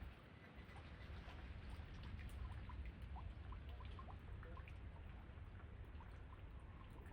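Steady, faint rain with many scattered drops ticking, over a low, steady rumble of wind.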